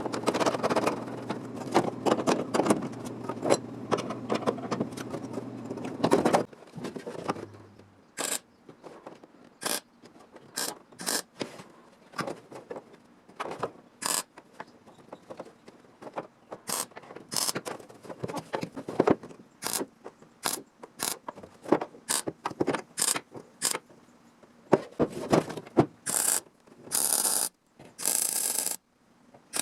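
Workshop metalwork on a sheet-metal panel: a machine hums for about the first six seconds and then stops, followed by scattered sharp clicks and taps of tools and metal being handled, with a few short harsher bursts near the end.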